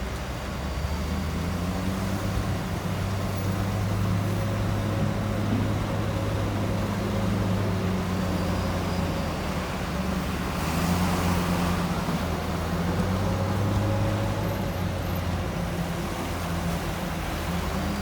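Heavy diesel engine of earthmoving machinery running steadily, swelling and easing in load several times. A brief rushing noise comes in about ten and a half seconds in.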